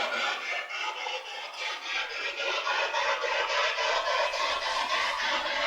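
Spirit box sweeping through radio channels: a steady, choppy stream of static and brief radio fragments, chopped into rapid even pulses several times a second.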